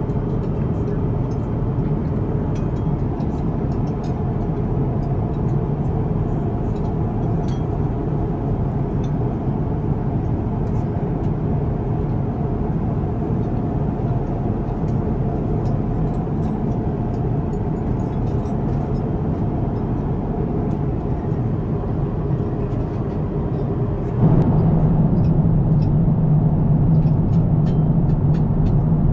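Steady low rumble and rush of an Airbus A350-1000's cabin in flight, with a few faint clicks. About 24 seconds in it steps abruptly louder and deeper.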